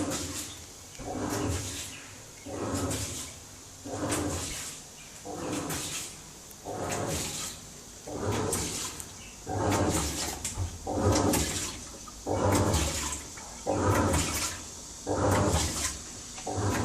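Samsung washing machine washing a load: water sloshing in the drum in a regular swish about every second and a half, the loud wash noise that the owner finds unbearable.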